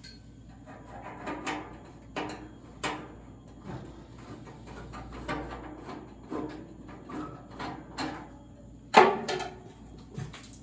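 Screws being taken out of a lawn tractor's hood: scattered irregular clicks, scrapes and light knocks of tool and parts, with one louder knock about nine seconds in.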